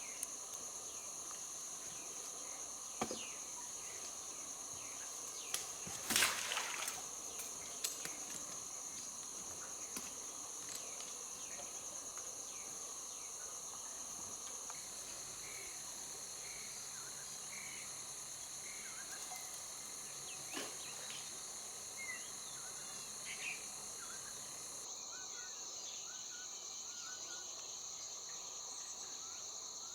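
Steady high-pitched drone of insects, several tones held together, with a few sharp clicks or knocks, the loudest about six seconds in. The highest of the tones drops out near the end.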